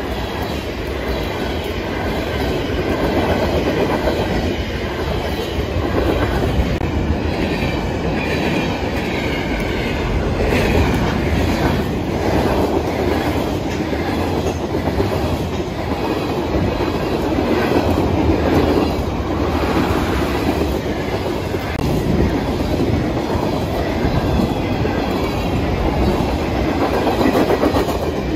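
Freight cars (gondolas, covered hoppers and tank cars) rolling past at close range: a steady rumble of steel wheels with clickety-clack over the rail joints, swelling and easing as the cars go by. Light wheel squeal rises over it around ten seconds in.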